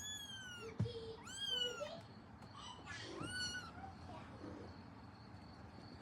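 Newborn kitten mewing three times: short, high, thin mews that each rise and fall in pitch, about a second apart.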